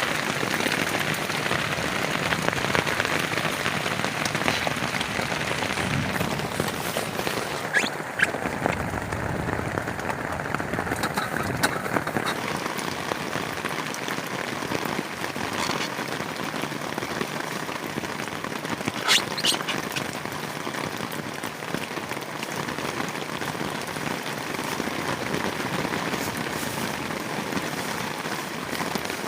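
Heavy rain falling steadily on a plastic tarp shelter, a dense continuous patter, with a few sharper drop taps standing out now and then.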